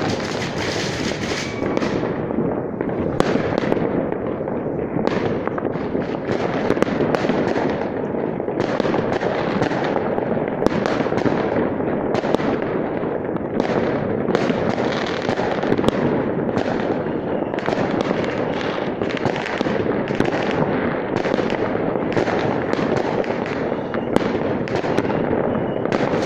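Many fireworks going off at once: a dense, unbroken crackle of bangs and pops, with sharper cracks every second or so.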